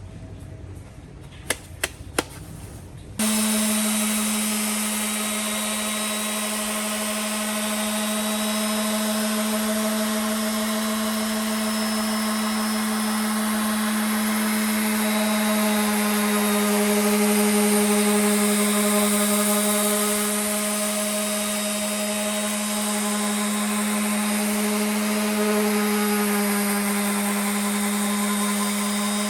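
Electric power tool switched on after a few clicks, about three seconds in, then running steadily at constant speed with a high hiss over its motor tone.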